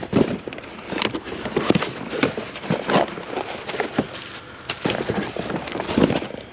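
Irregular clatter and knocks with rustling, from boxes of scrap wire and metal being rummaged through by hand.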